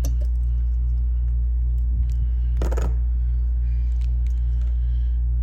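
Steady low electrical hum, with a few faint clicks and one brief rustle about two and a half seconds in.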